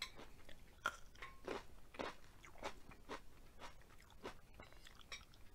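Close-miked chewing of crunchy food, with a steady run of crisp crunches about twice a second.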